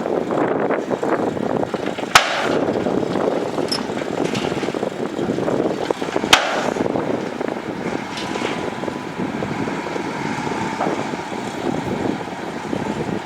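Heavy earthmoving machinery running with a dense, steady engine noise, broken by two sharp knocks about four seconds apart.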